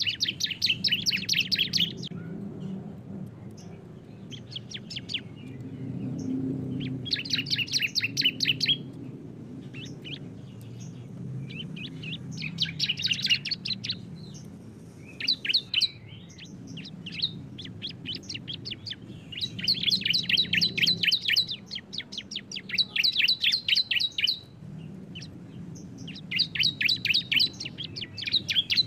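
Bar-winged prinias (ciblek) singing their rapid rattling 'bren' trill in bouts of one to two seconds, repeated every few seconds, two birds' songs combined. A steady low rumble lies underneath.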